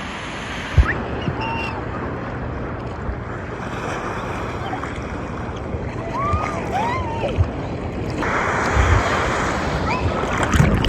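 Ocean surf breaking and washing up the beach in a steady rush, growing louder about eight seconds in as a wave runs up the shore.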